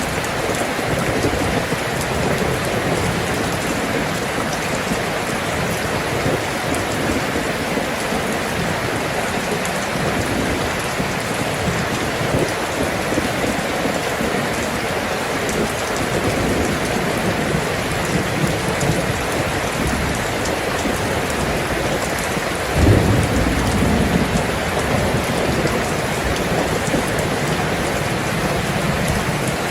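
Steady rain falling, with a low rumble of thunder rising suddenly about 23 seconds in and fading over a couple of seconds.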